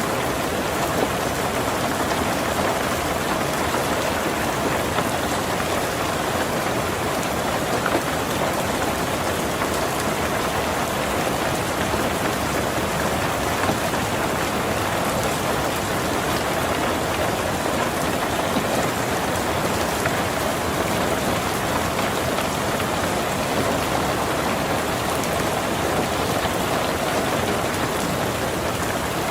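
Heavy rain falling steadily on a tin roof: a dense, even patter of drops without a break.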